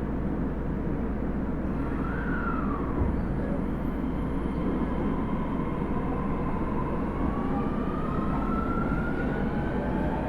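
Osaka Metro 30000-series subway train running, a steady rumble of wheels and traction motors under the whine of its Hitachi SiC-VVVF inverter. The whine bends up and back down briefly about two seconds in, then climbs slowly in pitch as the train gathers speed.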